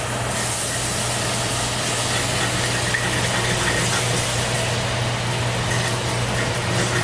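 Garlic and annatto sizzling in oil in a pan on low heat: a steady crackling hiss, with a steady low hum underneath.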